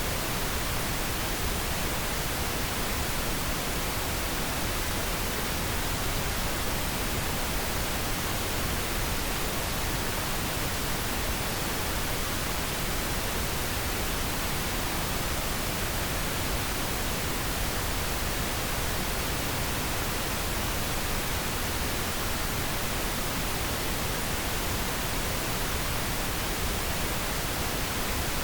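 Steady synthetic pink noise: an even, unchanging hiss spread across the whole range, with no events or variation.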